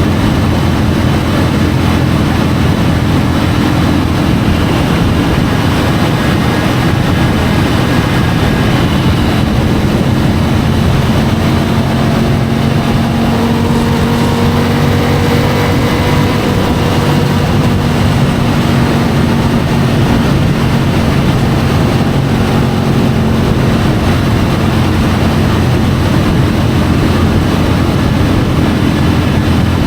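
Triumph Tiger 850 Sport's three-cylinder engine running at a steady cruise on the move, its drone held at an even pitch with only slight drift, under a constant rush of wind and road noise.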